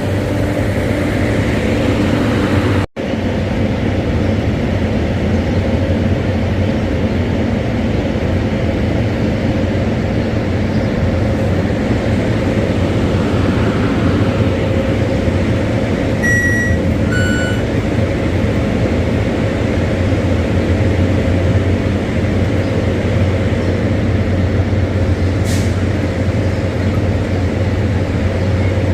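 Diesel passenger train running steadily at a station platform, a low engine hum. A short run of electronic beeps sounds about halfway through.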